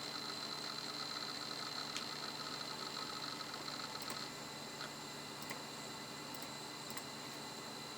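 The Toshiba Libretto 50CT's 2 GB laptop hard drive running, with a steady high whine and a fast, faint buzzing that stops about four seconds in. After that only the whine remains, with a few light ticks.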